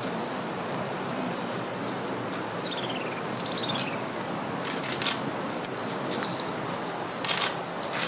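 Small birds chirping over a steady background hiss: a few short runs of quick, high repeated chirps and single sharp chips.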